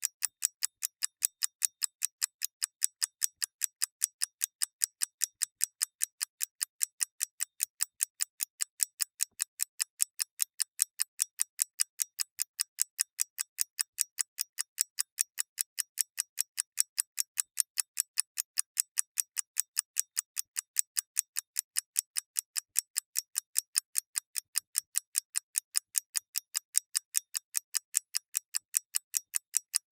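Mechanical clockwork ticking steadily and evenly, about five light, high-pitched ticks a second.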